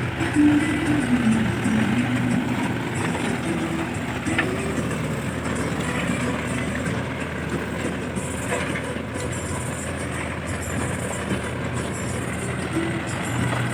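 Diesel engine of a Mahindra Yuvo 575 DI tractor (45 hp) running steadily while the tractor pulls a cultivator through a field.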